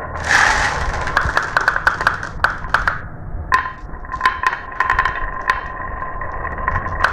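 Marbles rolling and clattering down a marble run track: many rapid clicks with a steady ringing tone, and a dense rush of clatter near the start.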